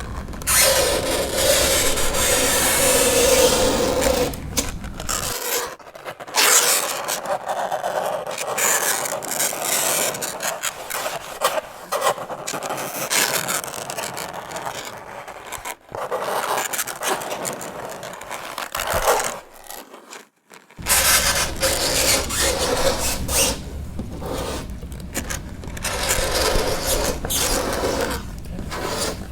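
Fingernails dragged across a chalkboard in repeated scraping strokes, some with a high squeal. The strokes stop briefly about two-thirds of the way through.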